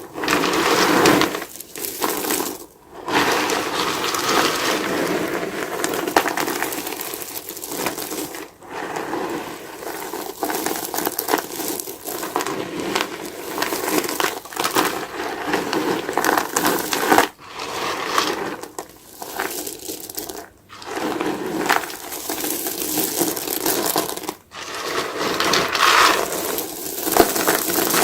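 A soapy sponge being squeezed and worked, its foam giving a dense crackling crunch that goes on almost without break, with a few short pauses.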